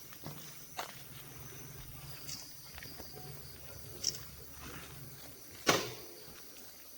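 Sounds of a wild female elephant moving: a few sharp cracks, the loudest about six seconds in, over a low steady hum in the first half.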